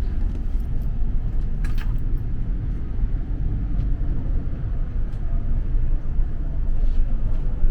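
Steady low rumble inside the lower deck of an E4 series Max double-decker Shinkansen, with one brief clatter about two seconds in.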